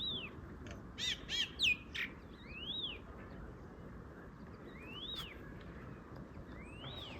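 Birds calling: a short rising-and-falling chirp repeated about every two seconds, with a louder burst of three or four harsher calls about a second in.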